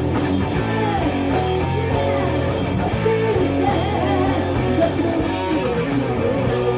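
Rock band playing live: electric guitar over bass and drums, with a melodic line that bends in pitch.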